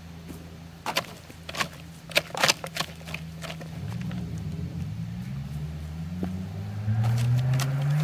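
A Saturn car with no exhaust system, its engine humming low and steady, then pulling away from about four seconds in with the engine note rising steadily and getting louder. In the first half, a few sharp clicks and scrapes of a plastic leaf rake on soil and stones.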